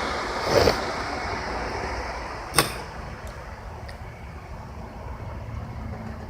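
Steady low mechanical hum, like a running engine or machinery, with a short whoosh about half a second in and one sharp click a couple of seconds later.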